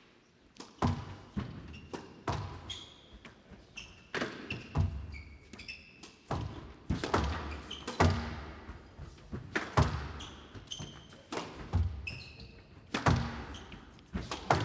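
Squash rally: the ball is struck by rackets and hits the walls with sharp thuds about once a second, with short high squeaks from players' shoes on the court floor in between.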